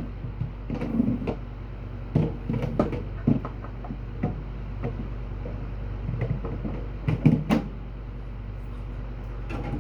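Scattered knocks and clunks of objects being handled and set down, with a cluster of louder knocks about seven seconds in, over a steady low hum.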